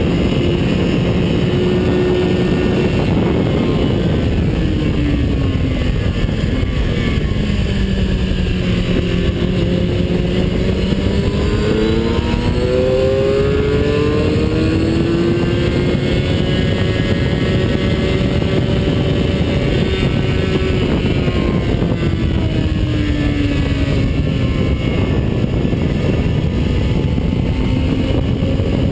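A vehicle's engine at speed on a race track, its pitch falling several seconds in, climbing again, then dipping once more near the end as it slows for corners and accelerates out, under heavy wind rush on the microphone.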